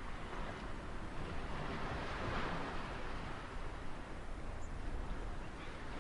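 Ocean surf washing onto a shore as a steady hiss, with one larger wave swelling and breaking about two seconds in.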